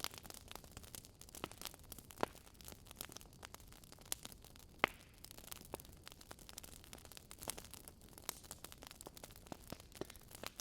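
Campfire burning with soft crackles: irregular sharp pops and snaps of burning wood over a faint steady hiss, one louder pop about five seconds in.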